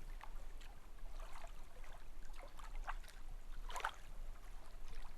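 Gentle water lapping with small, irregular splashes, over a steady low hum.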